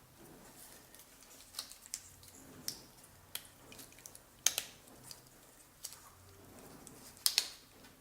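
Scattered light clicks and short scrapes of blender parts being handled during repair, with a sharper click about halfway through and a quick double click near the end.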